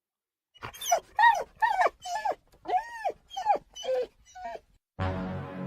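Bulldog whining and yowling in a run of about ten short cries, each rising and falling in pitch. Music starts about five seconds in.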